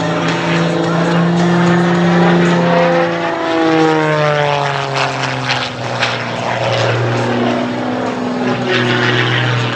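MXS-RH aerobatic airplane's 380-horsepower piston engine and propeller, manoeuvring, with the engine note shifting in pitch and dropping markedly from about three to five seconds in.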